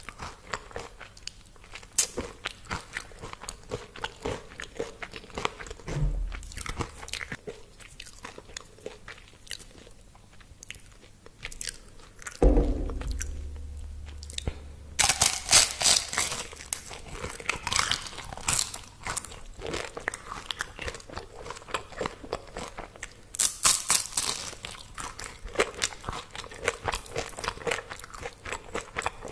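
Close-up biting and chewing of crispy deep-fried food: sharp crackly crunches, coming in dense runs twice in the second half. There is a dull thump about twelve seconds in.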